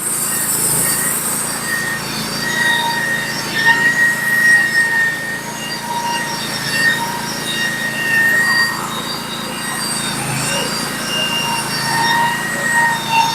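Norwood HD36v2 portable bandsaw mill taking a cut through a cant: the engine runs under load while the band blade gives a high squealing whine that wavers in pitch.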